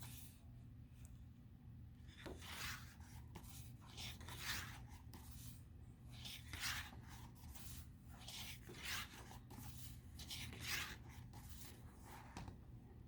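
Pages of a paper book being turned by hand: faint paper swishes about every two seconds.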